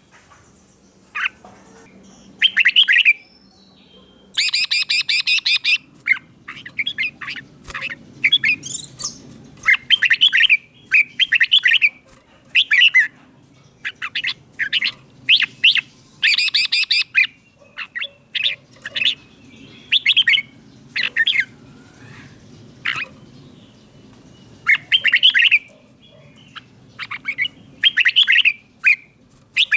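Red-whiskered bulbul singing short, loud, repeated whistled phrases in quick succession. Twice the song breaks into a dense, harsh, rapid burst.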